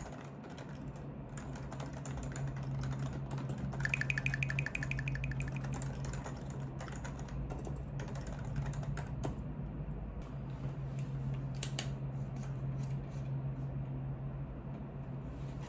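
Typing on a computer keyboard: a continuous run of key clicks over a steady low hum.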